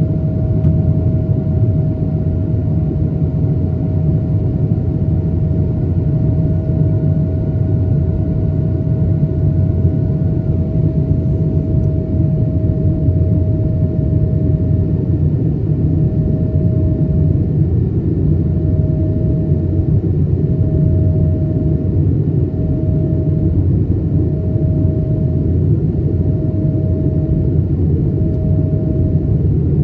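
Airbus A220-300 in flight, its Pratt & Whitney PW1500G geared turbofans making a steady deep rumble with a mid-pitched hum on top. About halfway through, the hum starts to pulse evenly, roughly once every second and a half.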